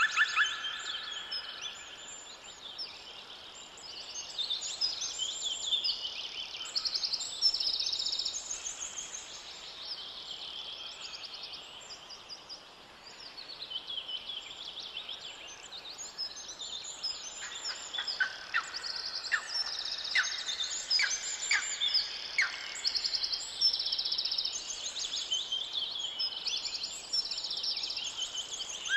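Forest songbirds singing, many high-pitched songs and trills overlapping, with a run of sharp chip notes about two a second past the middle.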